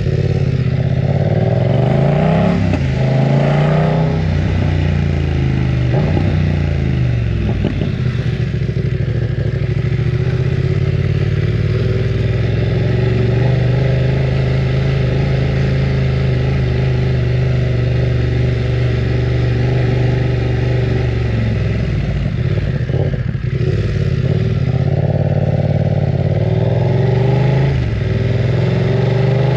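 BMW F900 R's parallel-twin engine running loud while riding. The revs rise and drop several times in the first few seconds and again near the end, holding a steady cruise in between.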